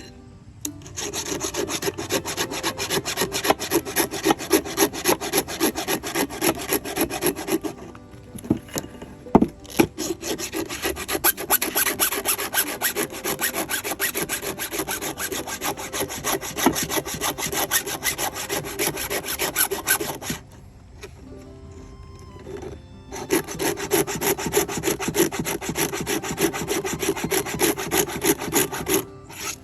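A file rasping across the cutters of a Craftsman 20-inch chainsaw's chain in quick repeated strokes as the chain is sharpened by hand. The strokes come in three runs, with short pauses about eight seconds in and about twenty-one seconds in.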